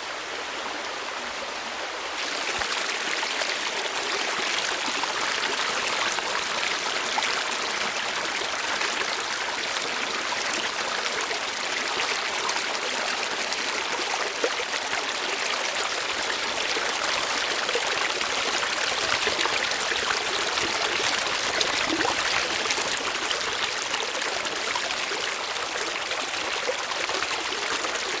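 Running water of a stream, a steady rushing and trickling that grows louder and brighter about two seconds in.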